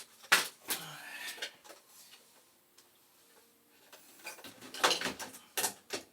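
Light clicks and clinks of metal parts and hardware being handled while an ignition control board is fitted to a gas boiler: a couple of sharp clicks near the start, a quiet pause, then a quick run of clicks near the end.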